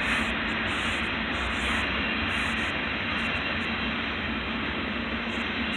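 Double-stack container train rolling past: a steady rumble and rushing noise of the steel wheels on the rails.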